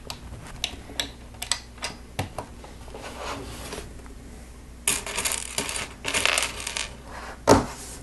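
Small plastic Lego pieces clicking and clattering: scattered clicks, then two short bursts of rattling about five and six seconds in, and one louder click near the end.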